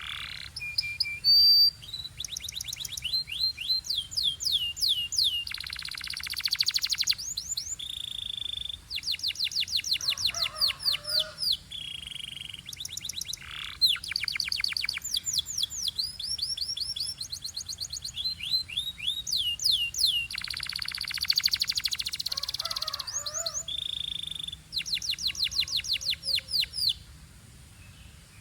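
Canary singing a long, continuous song of fast trills of rapidly repeated notes alternating with held whistled notes, stopping shortly before the end.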